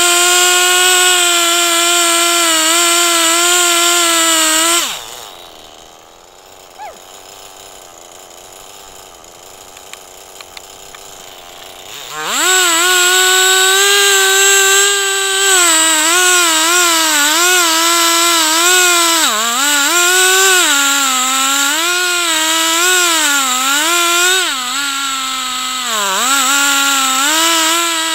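Two-stroke chainsaw in a chainsaw mill running at high revs. About five seconds in the throttle is let off and the engine note falls away, leaving a quiet stretch of about seven seconds with a few light clicks. About twelve seconds in it revs back up and runs with its pitch dipping again and again as the chain loads up cutting through the log.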